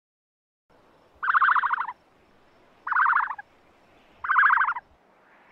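Bird calls: three short rattling calls, each about half a second long, coming about a second and a half apart.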